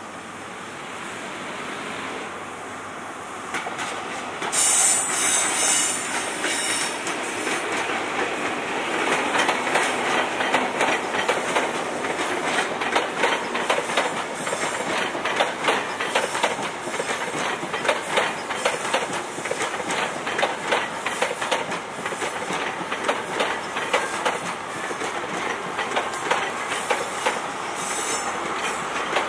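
First Great Western InterCity 125 High Speed Train with Class 43 power cars passing on a curve through pointwork, growing louder as it approaches. There is a high-pitched wheel squeal about five seconds in and again near the end, and the wheels click rhythmically over rail joints and points as the coaches run by.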